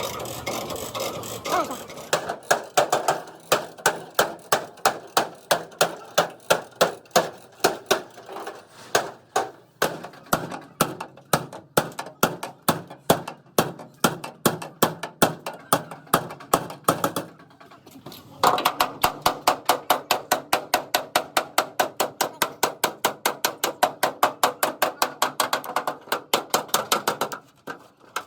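Hand hammer beating metal in a steady rapid rhythm of about three blows a second, stopping briefly about two-thirds of the way through and then resuming, as in panel-beating a damaged truck cabin.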